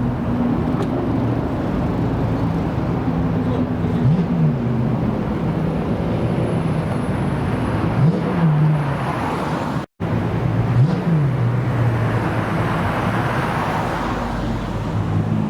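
Car engine idling with quick throttle blips, the revs jumping up and dropping straight back, about three times. A brief dropout about ten seconds in breaks the sound.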